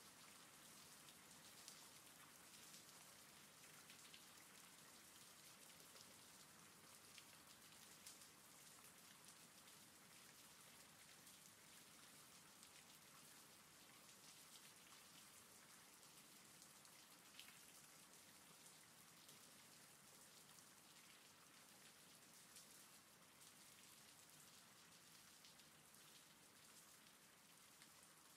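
Faint steady rain: a dense patter of raindrops with scattered sharper drop ticks, easing a little near the end.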